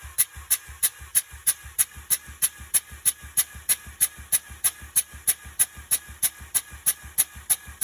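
Mazda 13B twin-rotor rotary engine cranked over by its starter for a compression test. It makes an even, regular chug of sharp clicks with low thumps, about three a second.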